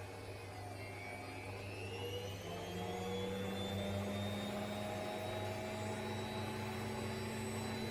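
Zanussi IZ 16 S washing machine spinning its drum up in a service-mode spin test: a motor whine that climbs in pitch over the first few seconds and then holds steady, over a steady low hum.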